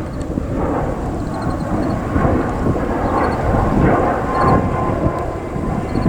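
Jet airliner's engines rumbling loudly as it passes the runway, a deep rolling roar that swells and ebbs, with a faint steady whine above it.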